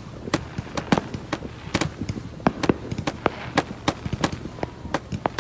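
Aerial fireworks going off: a rapid, irregular string of sharp bangs, several a second.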